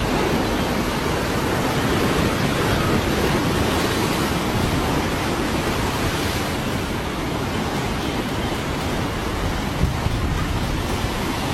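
Flash-flood water rushing down a river: a steady, dense rush of noise with no break.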